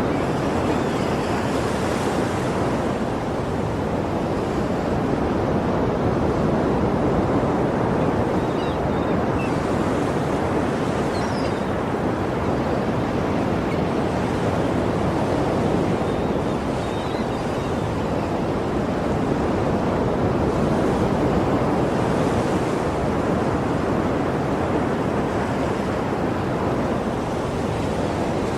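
Sea surf: a steady rush of waves breaking and washing, swelling and easing gently in loudness.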